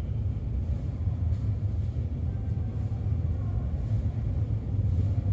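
Steady low rumble of a train at the station platform, with no clear rise or fall.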